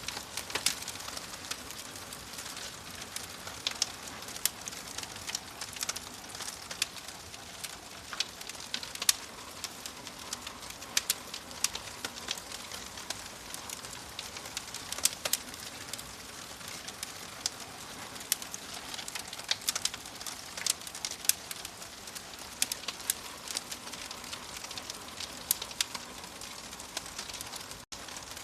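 Wood fire crackling in a fireplace: irregular sharp pops and snaps over a steady hiss of burning. The sound drops out for an instant near the end.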